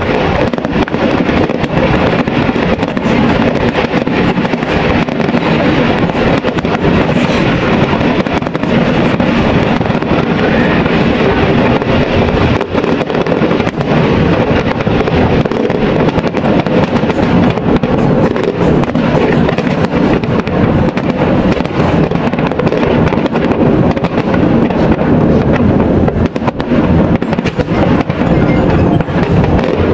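Fireworks display: a continuous, dense run of bangs and crackling from shells and fountains going off one after another.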